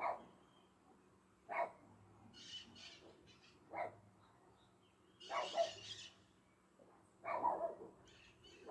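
Dogs barking, single barks and short runs of barks every one to two seconds, with birds calling in between.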